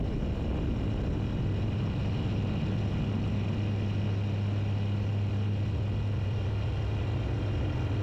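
Tecnam Sierra light sport airplane's four-cylinder Rotax engine and propeller running steadily at takeoff power, heard from inside the cabin as a constant low drone that firms up about one and a half seconds in.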